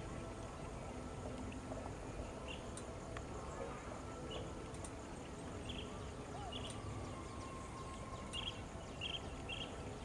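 Steady low outdoor rumble with short high chirps from small birds, a few scattered at first and then several in quick succession near the end.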